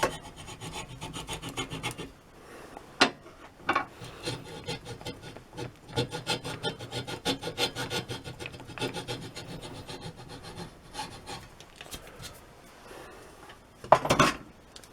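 Hacksaw cutting a shallow kerf in walnut with rapid short back-and-forth strokes, pausing briefly a couple of times. A sharp knock comes about three seconds in and a louder clatter near the end.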